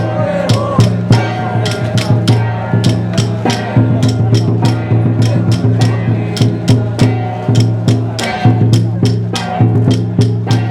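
Xiaofa ritual music: fast, even percussion strikes, about four a second, over a steady low drone, with chanting voices.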